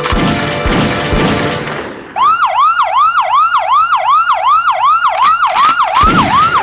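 A few sudden loud bangs with noisy decaying tails, then about two seconds in an electronic siren starts, yelping in quick sweeps about three times a second.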